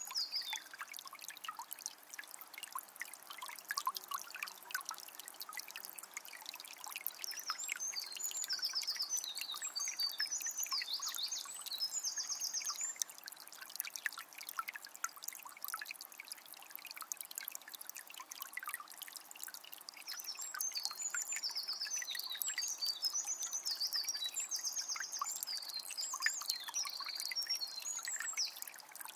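Shallow forest river trickling and babbling steadily over stones. A songbird sings quick high trilled phrases in two long bouts, one before the middle and one in the second half.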